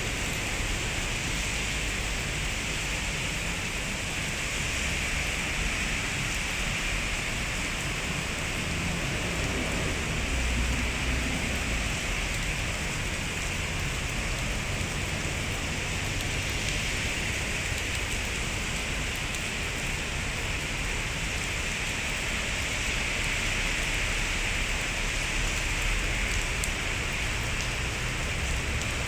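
Heavy rain pouring steadily in a thunderstorm, with a low rumble underneath that swells briefly about ten seconds in.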